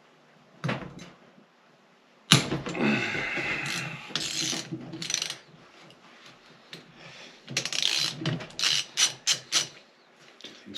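Ratchet wrench on the 17 mm cylinder-head nuts of a Honda CB450 engine: a knock under a second in, a sudden loud start about two seconds in and a few seconds of scraping metal, then a quick run of ratchet clicks near the end as a nut is spun loose.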